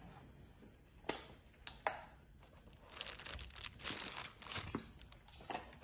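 Food packaging being handled and opened: two sharp clicks, then a run of crinkling and crackling rustle for a couple of seconds as the chicken is unwrapped.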